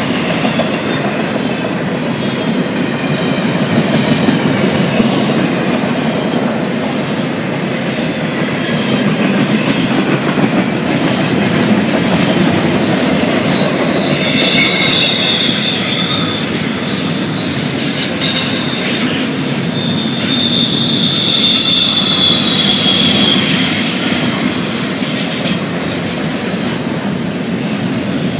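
Railroad cars rolling past: a steady rumble of wheels on rail, with several high-pitched wheel squeals through the middle.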